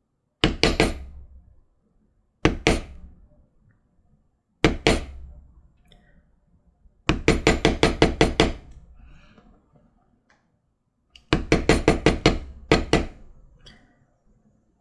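Mallet striking a leather beveling tool into a leather collar strap. The strikes come in short groups: a few at a time early on, then two longer runs of about nine or ten quick blows.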